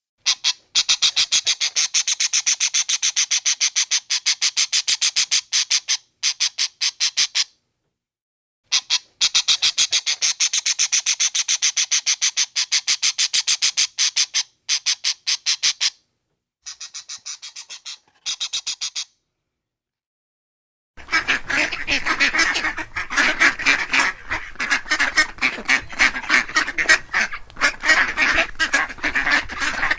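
Two animal recordings in turn. The first is runs of rapid, high, short calls, broken by brief gaps. About two-thirds of the way in it gives way to lower, rough, overlapping honking and quacking calls of ducks or geese.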